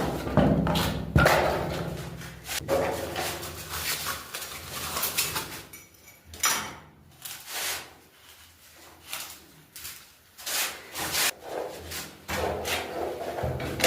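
Irregular scrapes, taps and knocks of hands and tools working on a plumbing fitting, several short sharp knocks among rubbing noises.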